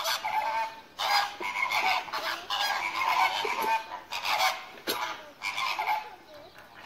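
Birds calling over and over in a string of short, partly overlapping calls, with a sharp click just before the five-second mark.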